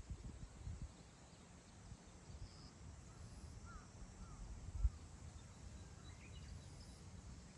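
Wind blowing across open grassland, rumbling low on the microphone, with a stronger gust about five seconds in. A few faint wild-bird chirps are heard in the middle and near the end.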